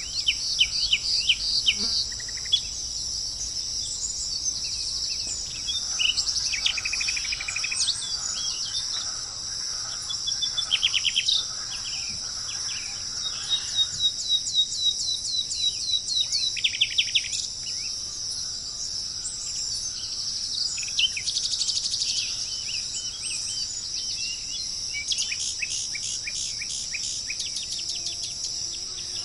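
Small songbirds singing bursts of quick, repeated falling notes and trills, phrase after phrase, over a steady high-pitched insect chorus that never lets up.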